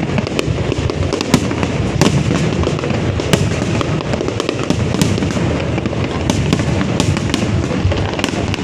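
Fireworks going off continuously: a dense rumble of overlapping booms with sharp cracks about twice a second.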